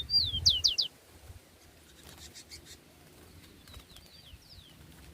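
A songbird singing: a loud phrase of quick, downward-sliding whistled notes in the first second, then a softer phrase of similar falling whistles near the end, over a low rumble at the start.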